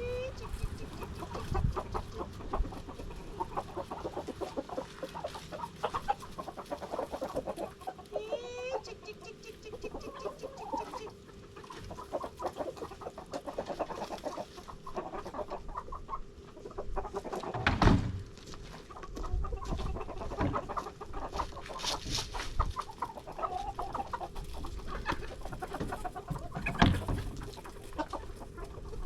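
Lavender Orpington hens clucking continually, with one rising, warbling call about eight seconds in. Two loud knocks stand out, one a little past halfway and one near the end.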